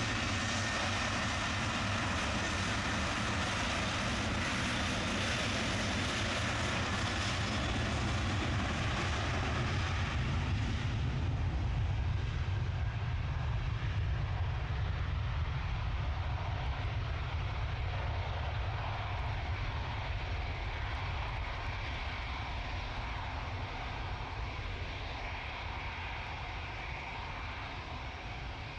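Aircraft engines at takeoff power as a departing plane runs past along the runway. About eleven seconds in the high hiss falls away, leaving a low rumble that slowly fades as the aircraft climbs out and recedes.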